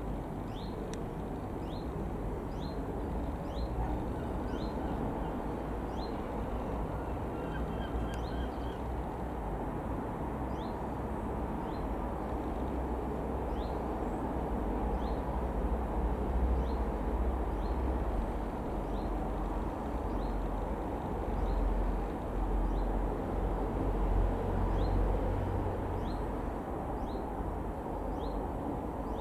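Distant jet rumble of a Boeing 737-800 flying over, a steady low roar that swells for a while in the middle and then eases off. A bird chirps over it, short high notes repeated about once or twice a second.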